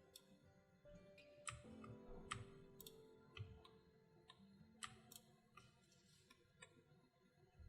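Faint, scattered clicks of a computer mouse and keyboard, a few each second at irregular intervals, over quiet background music with held notes.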